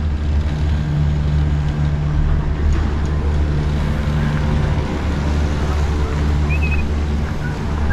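Gondola lift machinery giving a steady, unchanging low mechanical hum.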